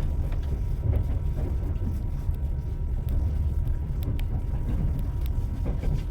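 Train wheels running on the rails: a steady low rumble with a few light clicks.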